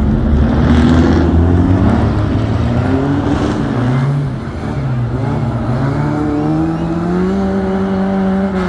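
Competition car engine at a hill climb, revving up and down as it drifts, then rising steadily in pitch about halfway through as it accelerates away.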